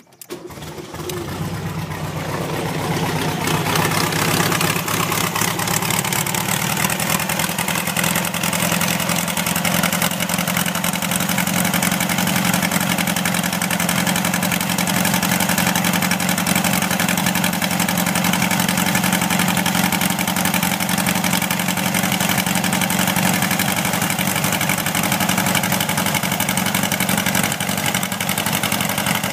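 A newly installed engine starting up on its first run: it catches right away, builds up over the first few seconds, then settles into a steady idle at an even pitch.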